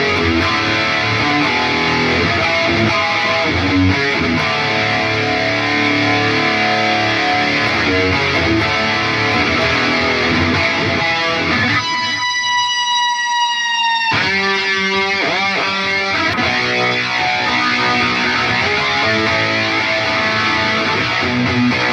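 Distorted electric guitar played through an Atomic AmpliFire modeler pedal into cheap computer speakers, picked in fast improvised runs. About halfway through, one high note is held for a couple of seconds, bending slightly in pitch, before the runs resume.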